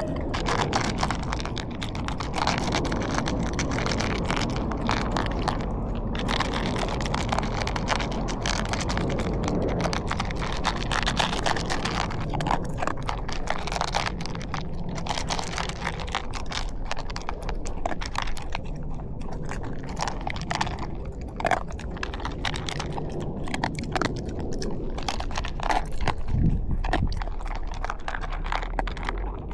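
A dog crunching dry kibble: a rapid, continuous run of crunches and clicks.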